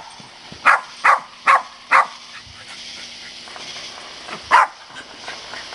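A dog barking: four quick barks in a row about a second in, then one more bark near the end.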